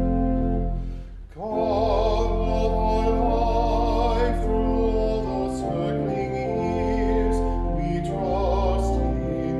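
Sacred music: sustained organ or keyboard chords, joined about a second in by a singer with a strong vibrato.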